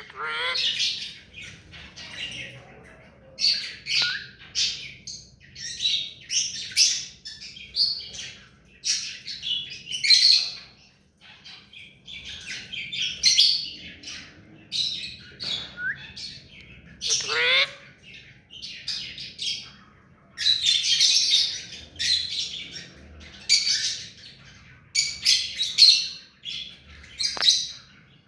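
Ring-necked parakeet calling over and over: short, shrill squawks and chirps in quick clusters, with now and then a fast falling sweep.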